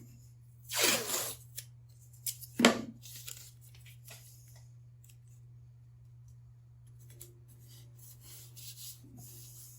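Adhesive tape pulled off a roll in two short loud rips, about a second in and again about two and a half seconds in, then quieter rubbing and rustling as it is pressed down, binding the cut wood pieces back together.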